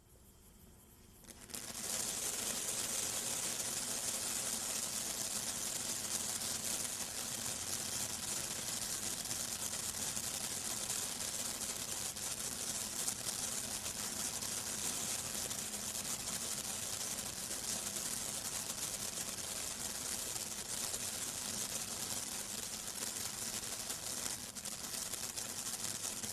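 Brothers Pyrotechnics Little John (BP4290) firework fountain burning: a steady, loud hiss of the spraying sparks that builds up about a second and a half in.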